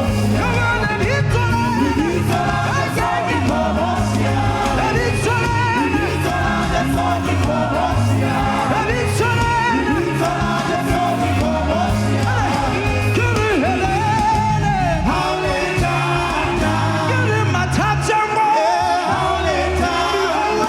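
Gospel worship music: a singing voice with band accompaniment over a steady, repeating bass line.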